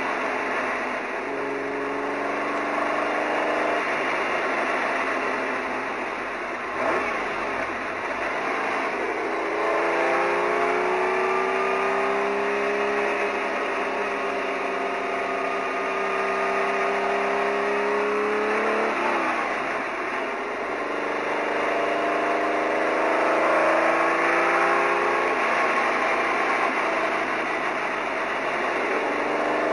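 Porsche 917 race car's engine heard from inside the cockpit, pulling up through the gears: its pitch climbs, drops at each of several upshifts, and climbs again. It has a rattly 'bucket of bolts' sound, which the original 917s also had.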